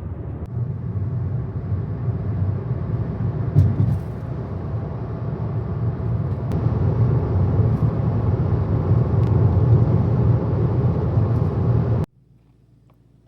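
Steady rumble of a car on the move, road and engine noise heaviest in the low end, slowly growing louder. It cuts off abruptly about a second before the end.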